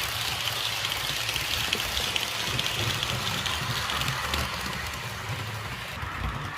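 REE model TGV running on its track: a steady rushing hiss of the wheels, with its ESU sound decoder playing a TGV running sound over a low rumble.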